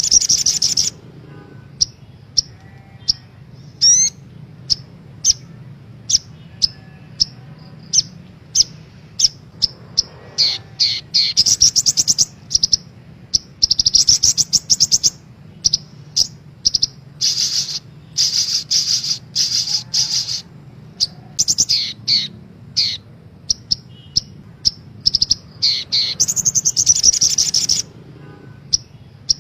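Sogok ontong (little spiderhunter) singing on a lure recording: quick high chirps broken up by several dense, fast trilled bursts, over a steady low hum.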